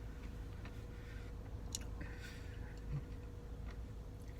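Quiet eating of soft-serve ice cream, chewing and mouth sounds with a few light sharp clicks spaced through it, over a faint steady hum.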